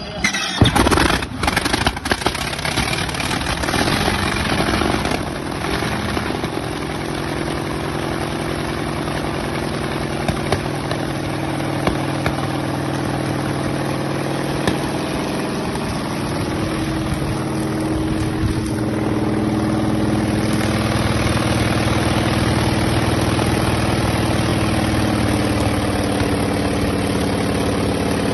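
Antonov An-2's nine-cylinder radial engine cold starting: it catches with a few loud bangs in the first couple of seconds, runs roughly for a few seconds, then settles into a steady run that grows a little louder about two-thirds of the way through.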